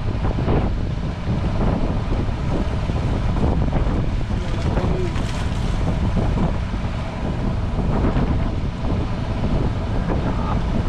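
Steady wind buffeting the microphone on a boat at sea, with a constant low rumble underneath.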